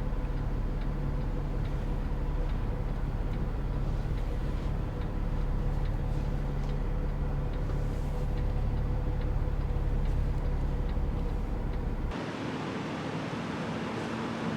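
Semi truck's diesel engine running at low speed while the rig reverses, a steady low drone with a constant tone through it. Near the end the sound changes abruptly to a thinner, hissier engine sound with less low rumble.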